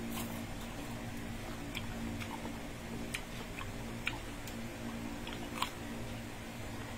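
A person chewing and biting food close to the microphone, with a handful of sharp, scattered clicks and smacks over a steady low hum.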